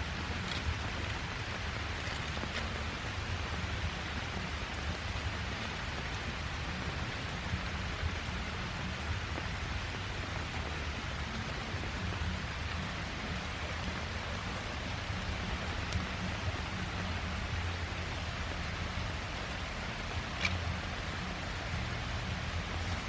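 Steady heavy rain falling, an even hiss with a low rumble beneath it and a couple of faint ticks.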